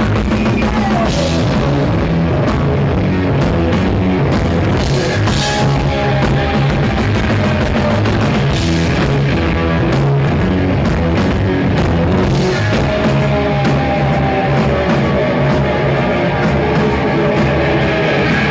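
Rock band playing live at full volume in an instrumental stretch: drum kit with cymbal crashes every few seconds, bass and electric guitar, with sliding, bending lead notes.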